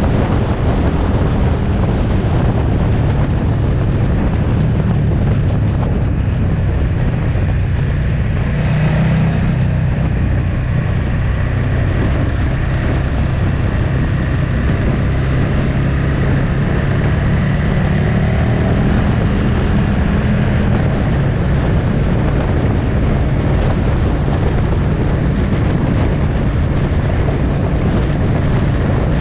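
Motorcycle engine running steadily under way, a low hum that shifts a little in pitch now and then, with wind rushing over the microphone.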